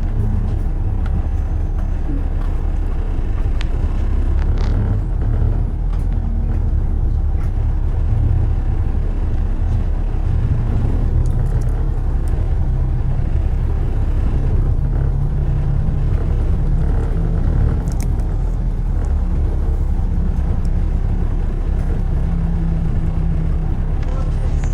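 Steady low rumble of motor traffic on a city road, with no single vehicle standing out.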